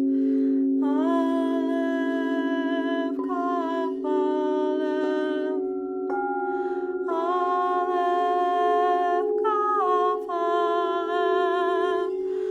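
A woman's voice toning long wordless notes, in phrases of a few seconds that step between pitches, over a steady drone of singing bowls held underneath throughout.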